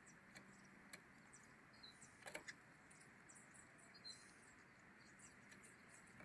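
Faint bird chirps and twittering, with a few soft clicks, one a little louder about two seconds in.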